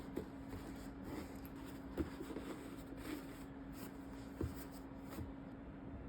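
Soft handling sounds, light taps and rustling, with a sharper tap about two seconds in and another past four seconds, over a faint steady hum.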